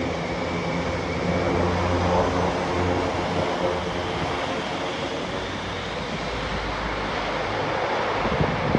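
Airbus A400M's four turboprop engines running, a steady rushing noise with a low propeller hum that is strongest for the first few seconds and then fades.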